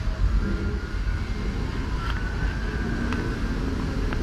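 Ride tram running, a steady low rumble.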